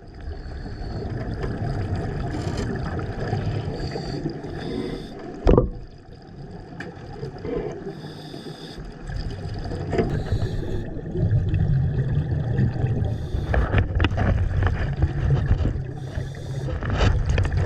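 Water sloshing and gurgling in an irregular rumble, with a single sharp knock about five and a half seconds in.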